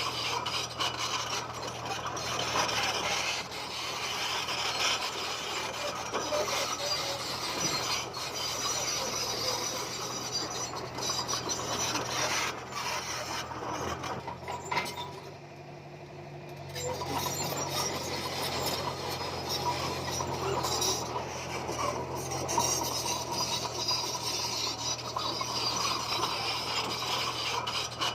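Komatsu bulldozer at work: the diesel engine runs steadily under a continuous grinding, scraping clatter of steel tracks and blade on stone. The noise eases briefly a little past halfway, then picks up again.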